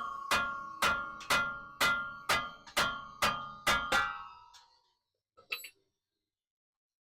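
Hammer striking metal: about nine ringing blows, roughly two a second, knocking at a stuck part to work it off. The blows stop about four seconds in, and a short click follows a little later.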